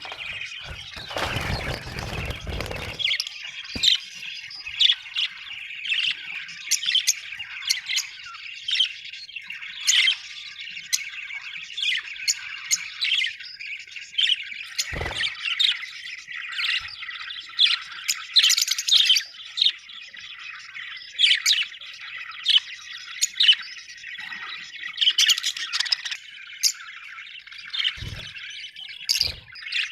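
Budgerigars chattering: a continuous stream of short, rapid chirps and squawks. A rustling noise fills the first few seconds, and a few soft thumps come about halfway through and twice near the end.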